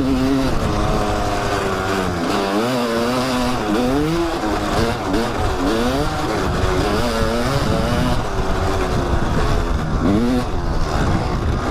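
Kawasaki dirt bike engine on a trail ride, its pitch rising and falling over and over as the throttle is opened and closed through turns and bumps.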